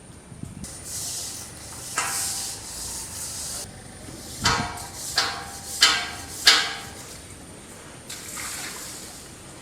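Water running from a tap in two short spells, with four sharp, ringing metallic clanks in the middle, about two-thirds of a second apart, as things are washed.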